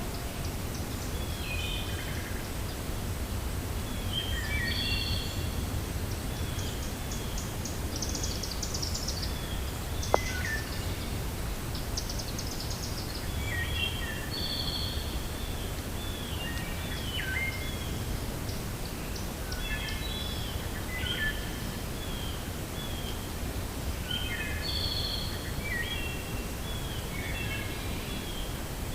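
Wind blowing steadily through a forest, heard as a low haze, with several birds chirping throughout: repeated short falling notes and a couple of rapid high trills. A single sharp click about ten seconds in.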